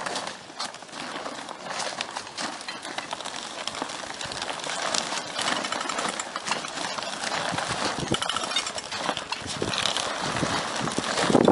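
Plastic sheeting of an AquaDam flood barrier crackling and rustling as it is unrolled and handled: a dense, irregular run of crinkles and clicks that grows louder near the end.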